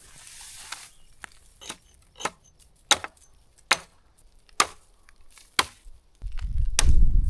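Wood being chopped by hand: about seven sharp, separate chops, roughly one a second. Near the end, wind buffets the microphone.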